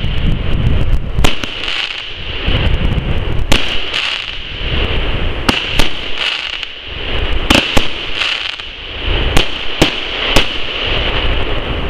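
Consumer fireworks battery firing its shots one after another: a sharp bang every second or two, with a continuous hiss between them.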